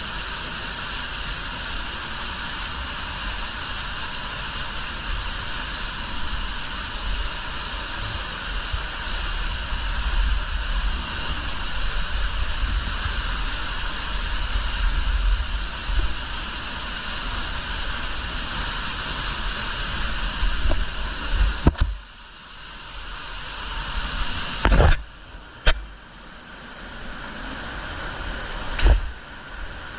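Cave waterfall pouring, a steady rush of water with a deep rumble beneath. About two-thirds of the way through it drops off suddenly to a quieter rush, and a few sharp knocks follow.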